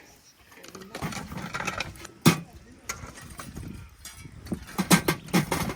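A few sharp knocks or clinks: one about two seconds in and a quick cluster near the end, with voices in the background.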